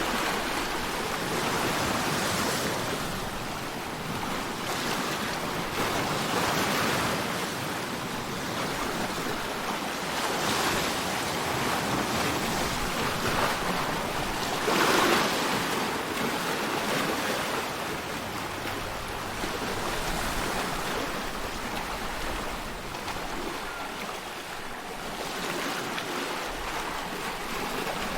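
Sea waves washing in: a continuous rush of water noise that swells and eases every few seconds, with its strongest surge about halfway.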